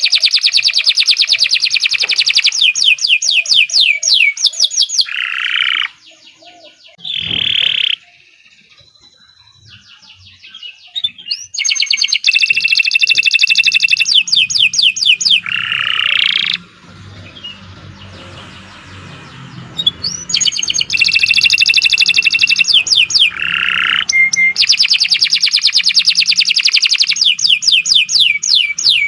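Domestic canary singing long phrases of rapid, evenly repeated trill notes, in full song, with a couple of breaks of a few seconds between phrases.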